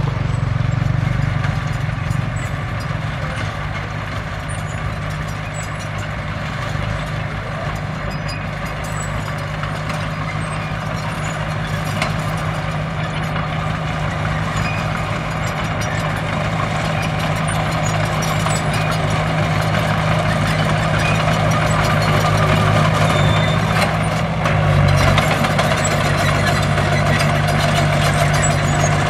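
Engine of a heavy construction machine running steadily, with a brief shift in pitch about 25 seconds in.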